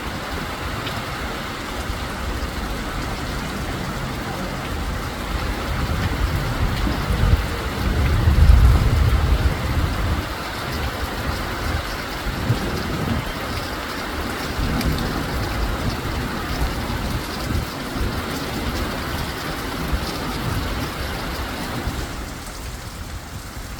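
Heavy rain pouring steadily. A low rumble swells and fades about six to ten seconds in.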